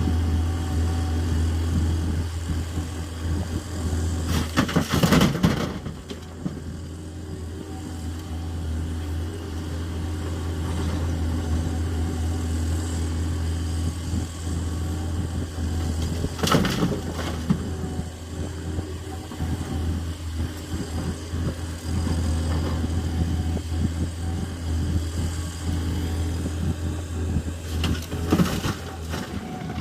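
Volvo 210E excavator's diesel engine running steadily under work. Three loud noisy bursts, each a second or so long, come roughly every eleven to twelve seconds: about 5 s, 16 s and 28 s in.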